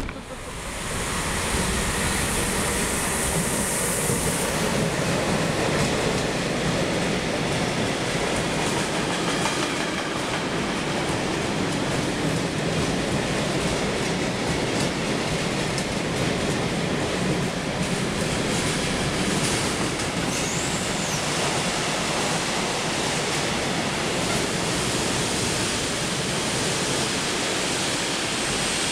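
A train running past close by: a steady rolling noise of wheels on the rails, swelling about a second in and holding throughout. A high squeal comes in during the first few seconds.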